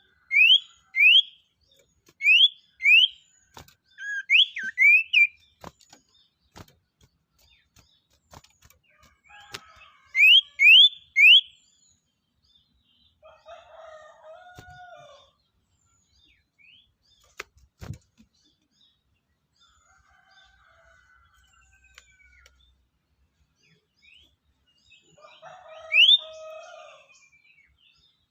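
A small songbird calling in short series of sharp, rising whistled notes, two or three at a time, repeated several times with pauses. A few lower, rougher calls come in about halfway through and again near the end.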